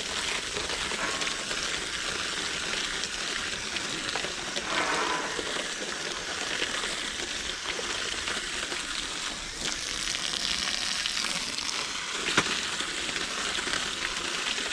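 Water from a garden hose nozzle spraying onto an air-conditioner condenser's coil fins, a steady hissing spatter. A single sharp knock sounds about twelve seconds in.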